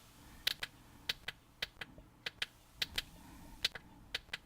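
Plastic push button on a live-streaming sound card clicking in press-and-release pairs, about seven presses a little over half a second apart: the electronic-voice effect button being stepped through its modes.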